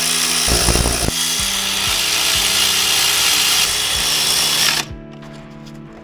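Power tool running continuously for several seconds with a loud steady hiss, heavier briefly about half a second in, then cutting off suddenly near the end; background music underneath.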